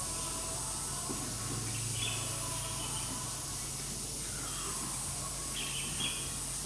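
Outdoor ambience: a steady high insect drone with a few faint bird chirps, about two seconds in and again near the end.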